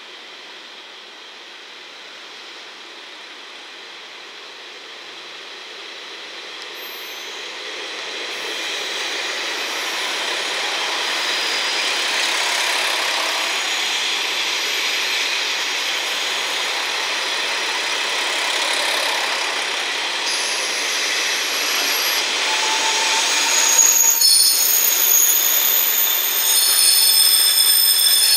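JNR KiHa 40-series diesel railcars, a five-car set, rolling past at low speed with steady wheel-on-rail running noise that grows louder as the cars come close. From about two-thirds of the way in, high-pitched wheel squeals set in and continue as the train slows.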